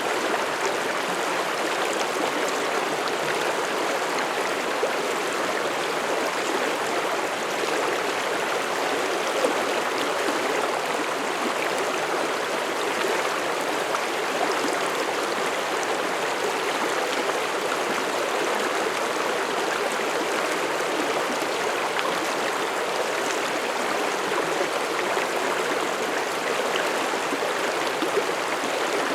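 Mountain stream flowing over rocks: a steady rushing and burbling of water with small splashes, unchanging throughout.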